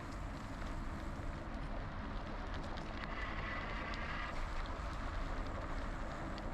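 Wind rush on the microphone and tyre rumble from a GoCycle GX electric bike riding along, with a brief whine about three seconds in.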